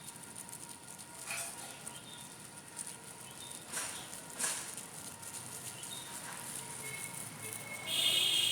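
Kittens playing in a plastic bag: soft, scattered rustles and scuffles. A short, high-pitched animal call comes near the end.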